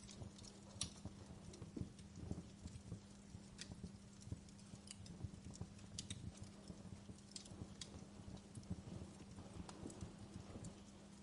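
Wood fire in a fireplace crackling, with irregular sharp pops and snaps over a low rumble of the flames and a faint steady hum underneath.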